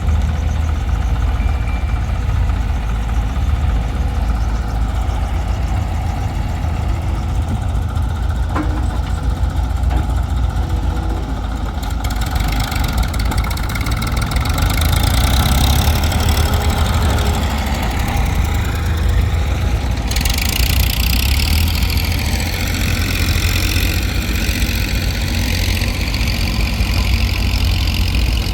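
Heavy diesel machinery engines of an excavator and a tractor running steadily with a deep rumble. Partway through, a higher hiss with wavering tones joins in and grows stronger.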